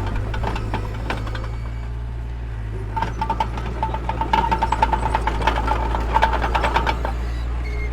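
Diesel engine of a mini bulldozer running steadily, with rapid metallic clanking and rattling from about three seconds in until near the end.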